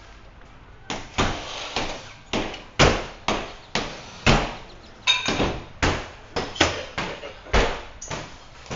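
A series of sharp knocks or bangs, roughly two a second at an uneven pace, starting about a second in.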